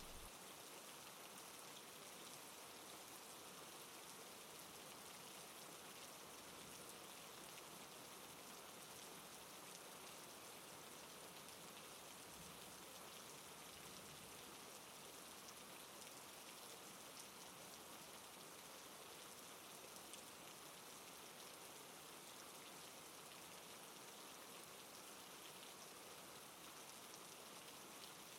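Faint, steady rain-like patter of many small drops, even throughout.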